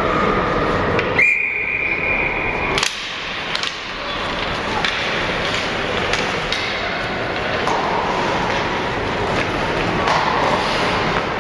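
Ice hockey game sounds: a referee's whistle blows once, a steady high note of about a second and a half, starting about a second in. Then come scattered clicks and knocks of sticks and puck over a steady rink background.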